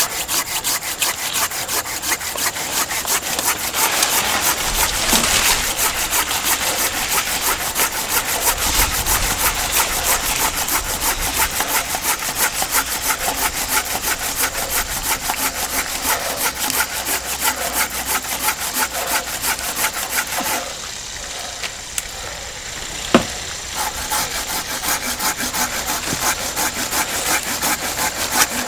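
Silky Gomboy Curve hand pruning saw cutting through wood with quick, even back-and-forth strokes. It pauses briefly about three-quarters of the way in, with one sharp knock, then resumes.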